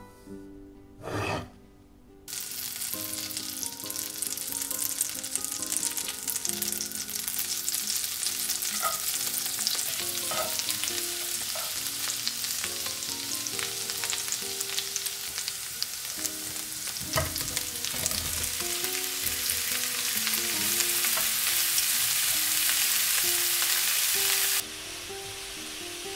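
Minced garlic sizzling in butter and olive oil in a nonstick frying pan, starting after about two quieter seconds, with stirring. Broccoli florets then fry in the pan, turned with a wooden spatula; the sizzle is loudest for a few seconds near the end, then drops suddenly.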